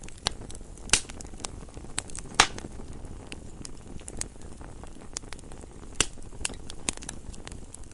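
Wood fire in a fireplace crackling: irregular sharp pops and snaps over a low, steady rumble of burning, with the loudest pop about two and a half seconds in.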